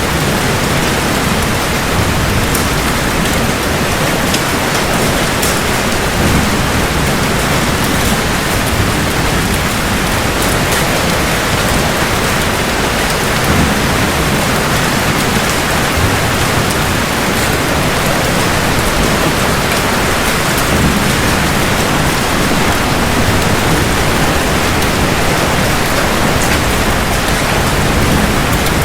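Steady, dense rain falling on hard surfaces, with a low rumble of thunder swelling and fading underneath.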